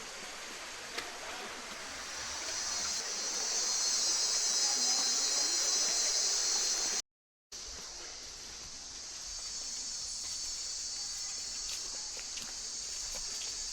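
Rainforest insects droning in a high, steady chorus, swelling louder about two seconds in. The sound drops out completely for half a second about halfway through, then the chorus carries on more softly.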